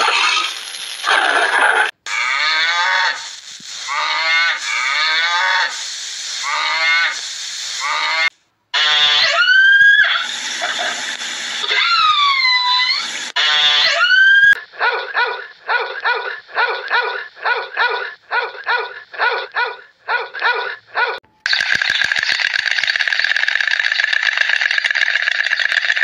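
A succession of different animal calls. First come repeated calls that fall in pitch. Then gliding whistled calls rise and dip, followed by a fast run of short pulsed calls about two a second, and a continuous harsh chorus of calls near the end.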